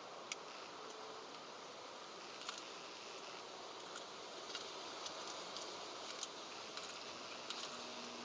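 Irregular light clicks and clinks, like small metal parts or tools being handled, over a steady hiss of wind noise.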